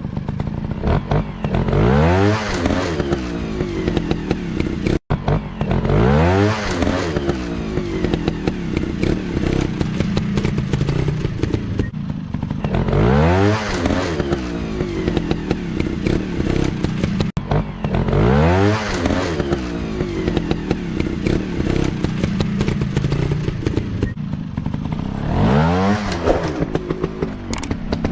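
Dirt bike engines running hard, revving up in rising sweeps about five times, with mechanical clatter underneath.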